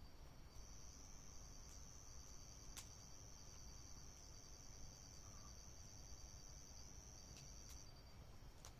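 Faint night insects, likely crickets, trilling high and steady, one note holding from about half a second in until near the end over a fainter pulsing one, with a few scattered faint clicks.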